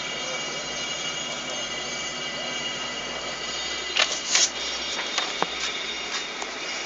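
Steady high-pitched mechanical whine from motorcycle testing-line machinery, made of several steady tones, with two loud knocks about four seconds in and a few lighter clicks after them.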